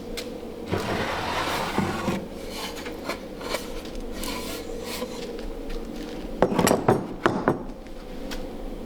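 Wooden drawer sliding in its wooden runners, a rough rub about a second in, then a few sharp wooden knocks near the end as the wood is handled.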